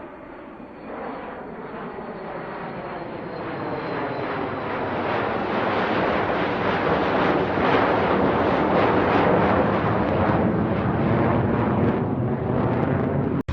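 Airplane coming in to land, its engine noise growing steadily louder as it draws near, then cut off abruptly at the very end.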